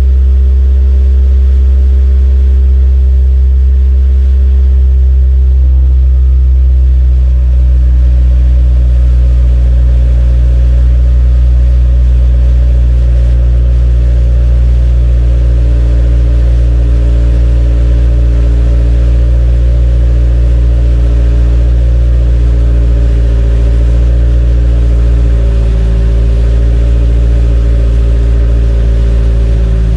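Exhaust note of a Toyota AE86's four-cylinder engine through an HKS Legal over-differential muffler, idling steadily after a cold start as the idle comes down toward about 1000 rpm.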